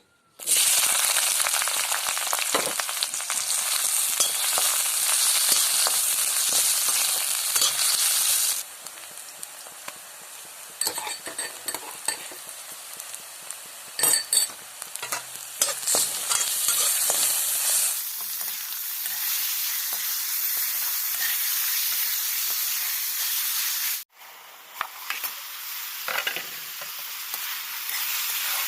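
Food frying in hot oil in a pan, a dense sizzle with stirring, loud for the first several seconds and then dropping abruptly to a quieter sizzle. A few sharp metal clinks of the stirring spoon against the pan come around the middle.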